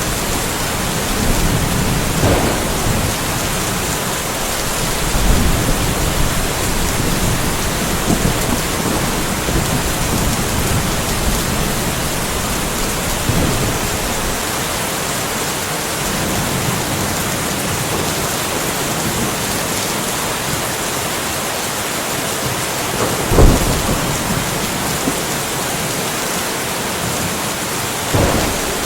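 Steady rain falling in a light thunderstorm, with low rolls of thunder rumbling under it in the first half. A sudden sharp crack about two-thirds of the way through is the loudest moment, and a smaller one comes near the end.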